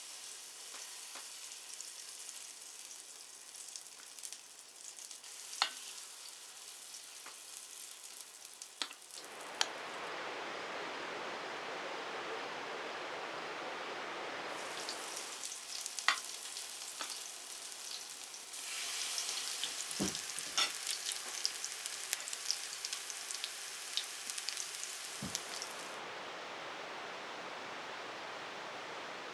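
Potato pancakes frying in oil in a cast-iron pan: a steady sizzle with scattered sharp clicks and a couple of dull knocks. The sizzle changes abruptly in strength several times.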